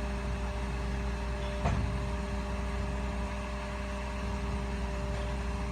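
A steady low mechanical hum with two constant tones running evenly, and a single short knock a little under two seconds in.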